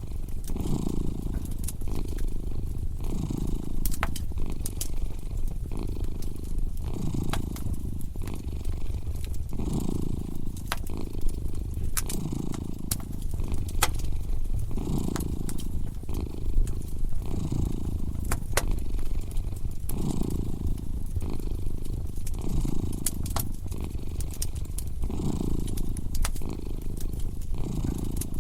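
A cat purring, its low rumble swelling and easing with each breath about every one and a half to two seconds. Over it a wood fire crackles, with frequent sharp pops.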